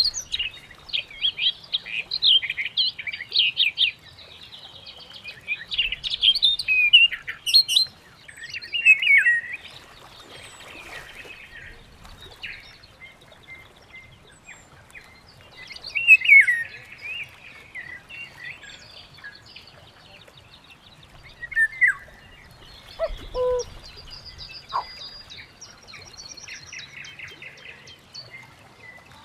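Birds chirping and calling, several calls overlapping in busy bursts with quieter stretches between, and a trill near the end.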